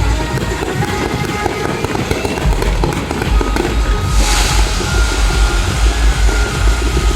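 Fireworks going off over loud music, with irregular low thumps and a sudden crackling hiss about four seconds in.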